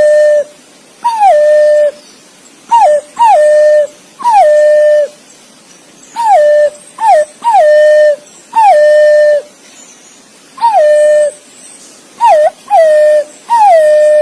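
Green pigeon (punai) calling: a string of loud whistled notes, each sliding quickly down and then held as a steady whistle for up to about a second. Some come as a short note followed closely by a longer one, and the notes repeat every second or so.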